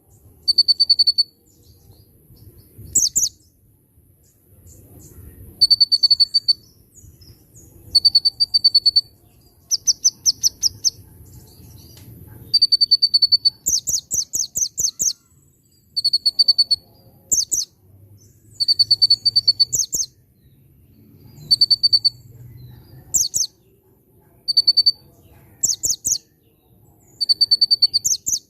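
A konin songbird singing a repeated phrase: a short, clear high whistle followed by a fast run of sharp rising chips, about ten to the second. The phrase comes over and over every second or two.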